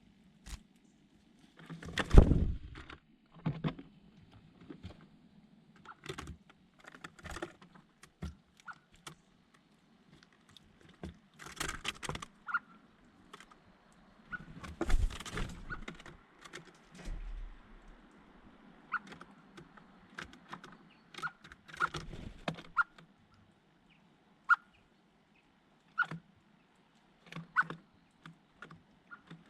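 Small birds close to the microphone: irregular pecking, scratching and scuffling, with rustling flurries, loudest about two seconds in. Near the end, short sharp high notes come about once a second.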